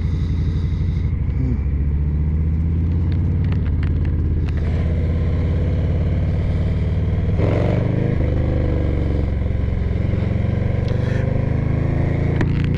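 Harley-Davidson Low Rider ST's Milwaukee-Eight 117 V-twin pulling away from a green light and running steadily under the rider, with a change in the engine note about seven and a half seconds in.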